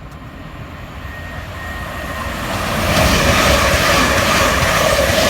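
Class 387 electric multiple unit approaching and running through the station at speed without stopping: a rush that grows louder for about three seconds, then stays loud and steady as the train passes.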